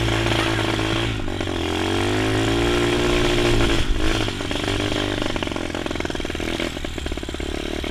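Honda SR125 pit bike engine running under a rider, its pitch climbing for about two seconds as it revs up, then dropping off about four seconds in. Near the end it runs choppier and less evenly.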